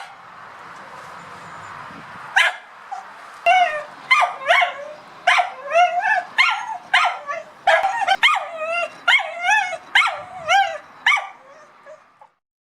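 English cocker spaniel barking excitedly at a cat: a single bark, another a couple of seconds later, then a fast run of high, pitched barks about two a second that trails off and stops shortly before the end.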